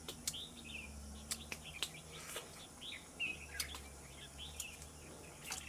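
Small birds chirping and twittering in short, high calls throughout, with a few sharp clicks scattered among them.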